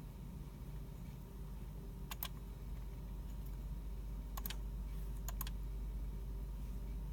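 Sparse clicks of computer keyboard keys and mouse buttons: three pairs of quick clicks, spaced a second or two apart, over a steady low hum.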